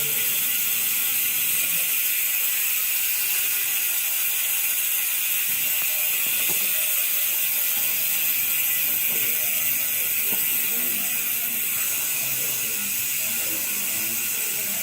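Koozer XM460 bicycle rear hub freewheeling: its six pawls click over the 72-point ratchet so fast that they merge into a steady, high-pitched buzz.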